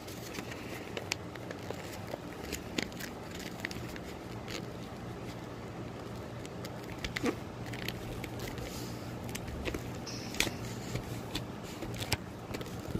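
Sheet of paper being handled, folded and creased, with scattered short crackles and taps, over a steady low hum.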